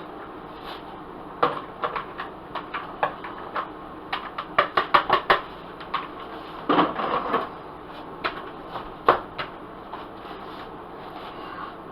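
Irregular sharp clicks and taps of a kitchen utensil against cookware, with a quick run of clicks about halfway through and a short clatter just after.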